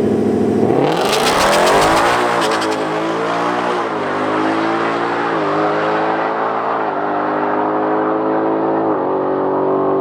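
Drag race car launching and accelerating hard down the strip, with a crackle at the launch. The engine climbs in pitch and dips about five times as it shifts up through the gears, growing more muffled as it pulls away; the pass ran 10.39 s at 127 mph.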